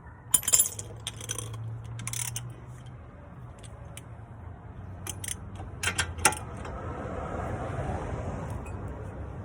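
Metal tools and hardware clinking, a scatter of sharp metallic clicks and knocks, most in a cluster about five to six seconds in, over a steady low hum.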